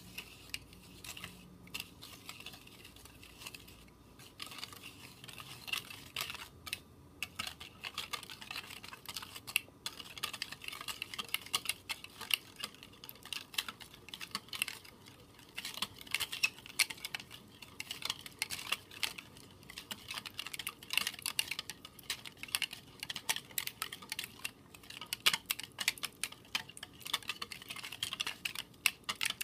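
Eggs being beaten with a metal utensil in a glass bowl: fast, dense clicking and tapping of the utensil against the glass, many strokes a second. It is quieter for the first few seconds, then picks up and goes on steadily.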